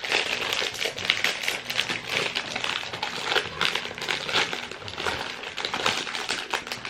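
Candy packaging being handled and opened: crinkling with a dense, irregular run of crackles.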